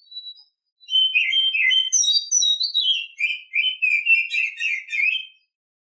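Female oriental magpie-robin (kacer) singing in breeding condition: one phrase of varied clear whistles and quick trills that starts about a second in, drifts lower in pitch, and stops shortly before the end.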